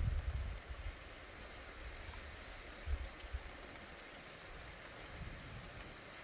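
Steady hiss of light rain falling during a thunderstorm. A low rumble dies away in the first second, and a brief low rumble comes about three seconds in.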